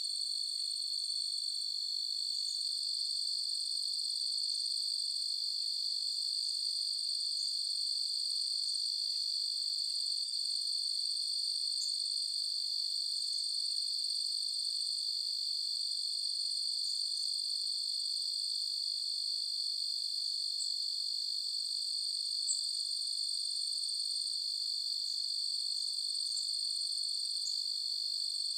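A chorus of crickets trilling without a break, a steady high-pitched ringing, with occasional short, higher chirps scattered over it.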